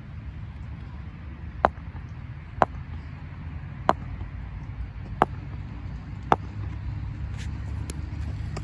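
Five sharp knocks, roughly a second apart, over a steady low rumble.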